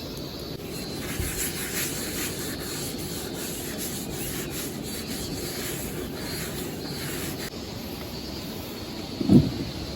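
Repeated rubbing strokes, several a second, over a steady low rumble; they stop a little past the middle, and a single thump follows near the end.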